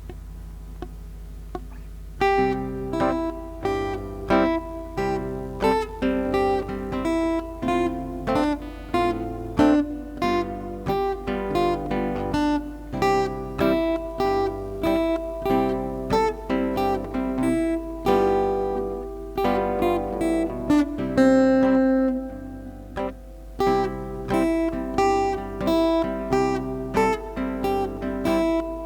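Acoustic guitar playing a melody in plucked and strummed notes, starting about two seconds in, over a low steady hum.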